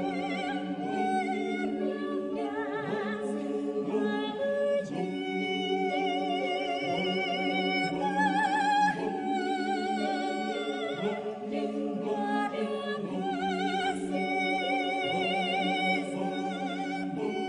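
Mixed adult choir of men's and women's voices singing a sacred piece in parts, the sustained notes carried with vibrato.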